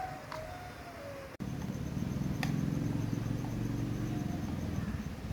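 Faint bird calls, then after an abrupt cut a steady low motor hum, with a single sharp click about a second later.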